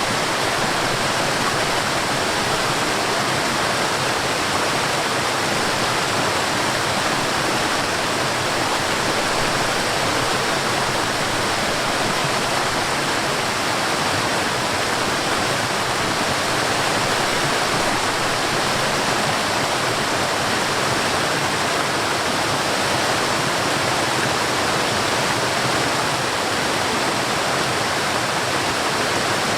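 Forest waterfall: water falling and splashing in a steady, even rush of noise, with no change in level.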